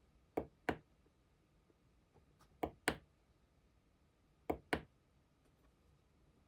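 Three pairs of sharp mechanical clicks, each pair a quick press-and-release about a quarter second apart, with a few fainter ticks between them: the push button of a DIY USB volume knob being clicked.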